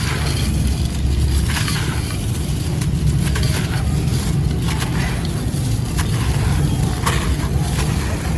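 Gritty grey concrete crumbling and crunching: a run of dry, gritty crackles with about half a dozen sharper crunches spaced irregularly, over a steady low rumble.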